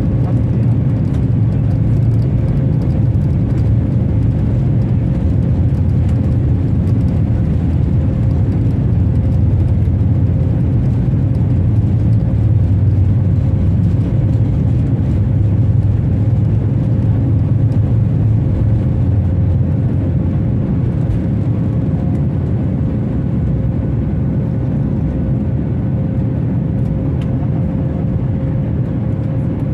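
Steady, loud rumble of the jet engines and rushing air heard inside the cabin of a Boeing 737-8200 in flight, with a faint steady hum above it.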